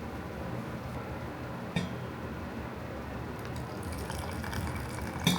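Two light clinks of glass or ceramic tableware, about two seconds in and again near the end, over a steady hiss.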